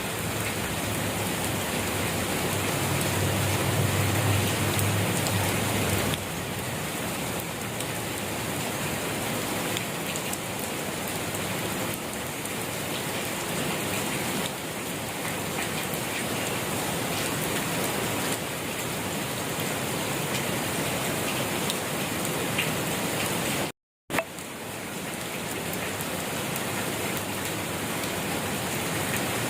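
Steady rain falling, an even hiss of drops on surfaces. A low rumble sits under it for a few seconds near the start, and the sound cuts out completely for a split second about two-thirds of the way through.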